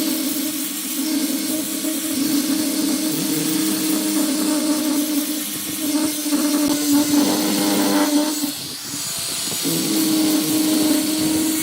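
A power tool motor switches on with a steady whine over a loud hiss. About nine seconds in it stops for roughly a second, then starts up again.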